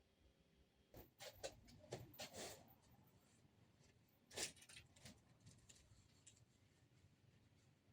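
Faint small handling sounds: a quick run of soft clicks and rustles, then a single sharper click a few seconds later, with a few faint ticks after.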